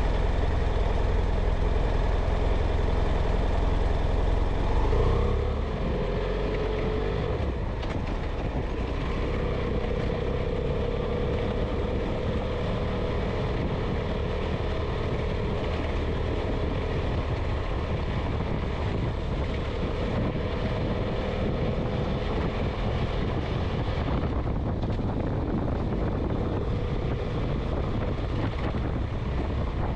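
A vehicle on the move: engine running under steady road and wind noise, with a short rise in engine pitch about five seconds in, after which the deep rumble eases and the running settles to a steady note.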